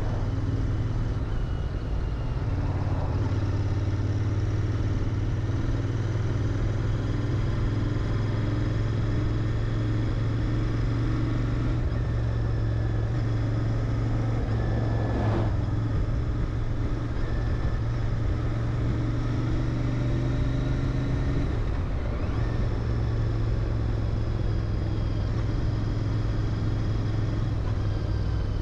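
Royal Enfield Interceptor 650's 648 cc parallel-twin engine running through its stock mufflers while the bike cruises at a steady speed; the engine note holds an even pitch.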